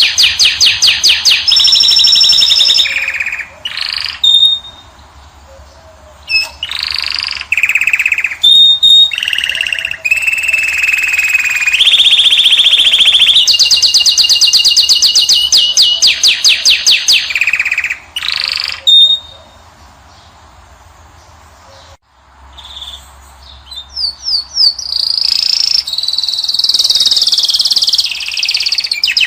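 Caged finch (goldfinch or canary) singing loudly: long, fast trills of rapidly repeated high notes mixed with short whistles, broken by two pauses of a couple of seconds.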